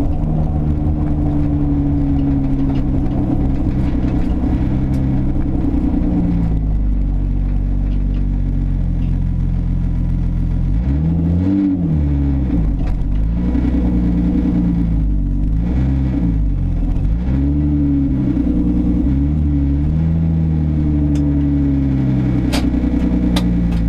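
Nissan Skyline R33 GTS-T's turbocharged RB25DET straight-six running loud and open from the downpipe alone, with no exhaust fitted. It runs steadily at first, then from about halfway the revs rise and fall in several short swells.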